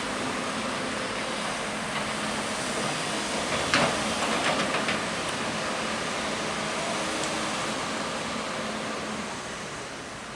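Diesel engine of a New Holland E265B crawler excavator running steadily, with a short run of metallic clanks and knocks about four seconds in. The sound fades somewhat near the end.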